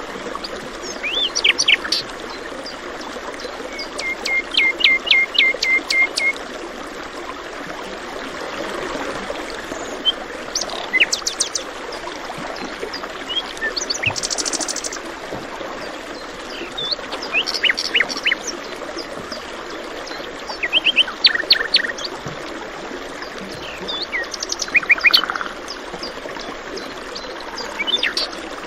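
Songbirds chirping and calling in short, scattered phrases, one of them a quick run of about eight repeated notes, over the steady rush of running stream water.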